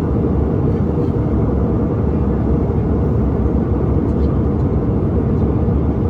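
Steady low rumble of airliner cabin noise, engines and airflow, heard from a window seat in flight.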